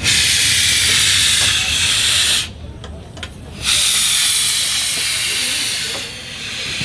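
Steam locomotive blowing off steam in a loud hiss, twice, with an abrupt break of about a second between, then weaker near the end.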